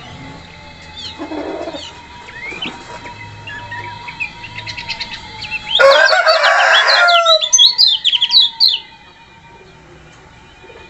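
Kecial kuning songbird chirping and twittering in quick high notes, breaking into a loud, dense burst of rapid song about six seconds in that trails off in fast chirps about nine seconds in.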